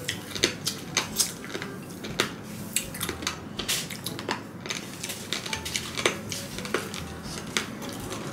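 Crunching of crispy fried pork rind (chicharon) being chewed close to the microphone: irregular sharp cracks a few times a second, the rind hard in parts.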